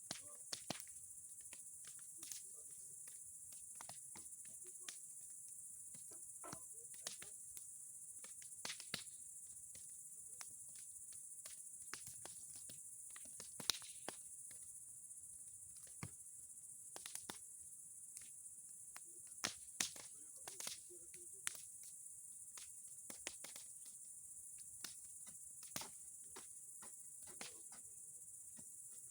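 Bonfire of old boards and pine cones crackling, with irregular sharp pops and snaps scattered throughout, a few louder ones about halfway through. Behind it, a steady high-pitched chirring of crickets.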